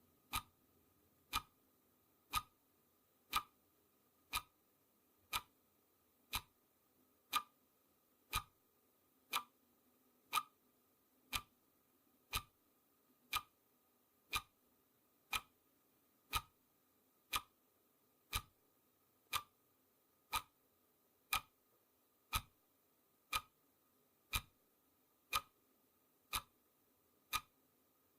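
Clock ticking sound effect marking off the seconds of a countdown timer: one sharp tick each second, perfectly regular.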